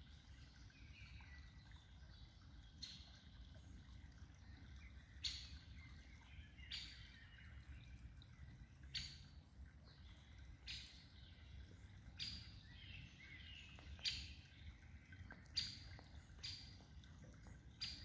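Faint bird calls: short high chirps repeated every second or two, over a steady low background rumble.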